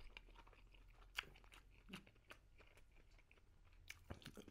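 Faint chewing of a sausage in a bun topped with sauerkraut: soft wet mouth clicks and crunches, a sharper one about a second in and a few close together near the end.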